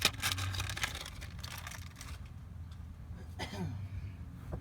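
A bag crinkling and rustling as a brass T fitting is taken out of it: a quick run of crackles for about two seconds, then quieter handling.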